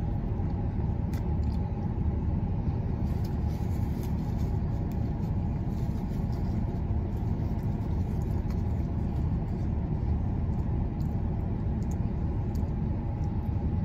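A car idling, heard from inside the cabin: a steady low rumble with a faint steady hum above it.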